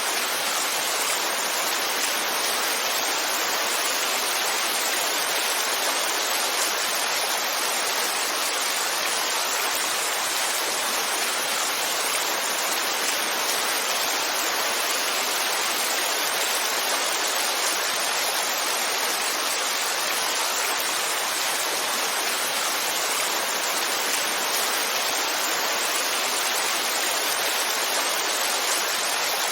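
Heavy rainfall making a steady, even hiss, with no single drops, thunder or changes standing out.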